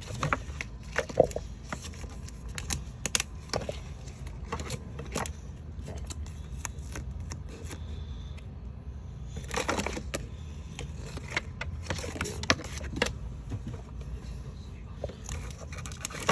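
Craft sheets and packaging being handled: scattered sharp clicks and taps, with a couple of longer rustling, crinkling stretches near the middle.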